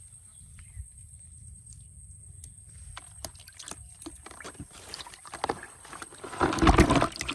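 Water splashing and sloshing, with scattered clicks that build to one loud splash near the end.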